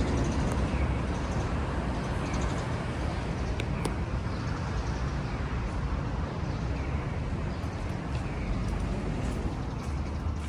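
Steady outdoor city ambience: a low rumble of road traffic, with two sharp clicks a little under four seconds in.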